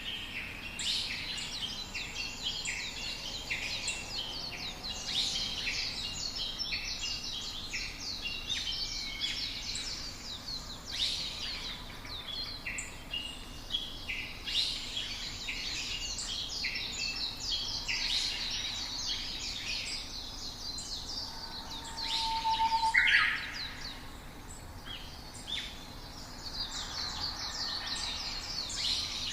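Several songbirds chirping and singing at once, a dense run of short overlapping calls and trills, with one louder burst of calls about three-quarters of the way through.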